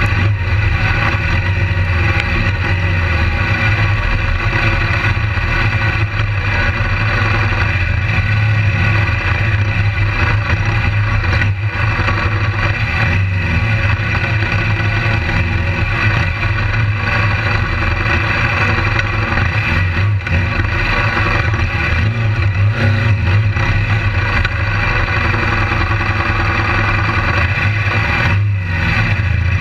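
Onboard sound of a BMW GS adventure motorcycle's engine running steadily under throttle on a dirt track, mixed with the engines of other dirt bikes riding close by.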